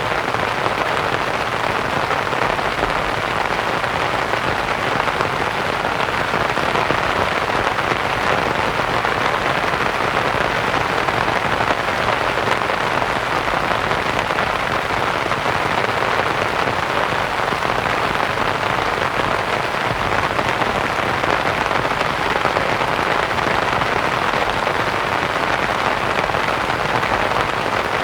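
Steady rain pattering on a canvas tent, blended with soft white noise.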